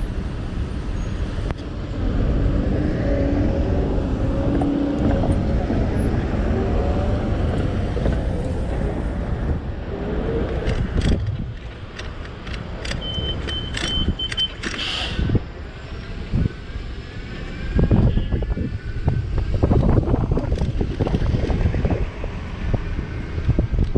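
Street traffic and wind rumbling on the microphone of an e-bike in motion, with passing cars. Around the middle come a few sharp clicks and a brief steady high beep, and in the last seconds the wind comes in gusts.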